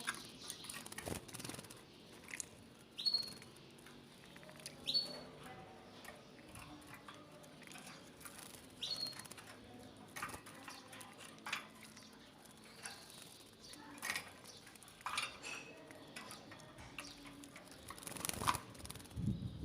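Canaries giving a few short chirps, each sweeping up to a brief high note, among scattered light pattering and fluttering as the birds bathe in water.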